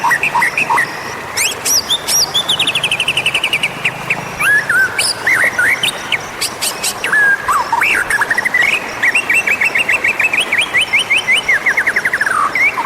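White-rumped shama (murai batu) singing: a varied run of whistled notes and fast trills of rapid repeated notes, some sliding downward in pitch.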